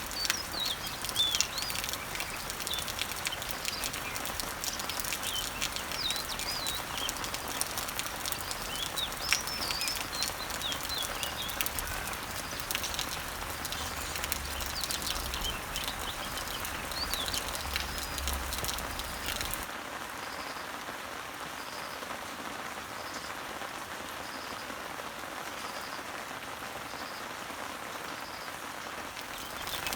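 Steady rain falling on leaves, with songbirds chirping over it and scattered drops ticking close by. About two-thirds of the way in the sound changes abruptly to a thinner, steadier rain with a faint high note repeated at even intervals.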